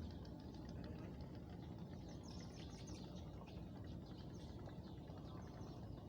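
Riverside evening ambience: a steady low rumble, with clusters of short high chirps in the background.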